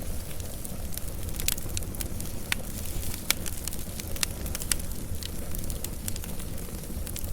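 Wood fire burning with a steady low rumble, and irregular sharp crackles and pops from the burning wood.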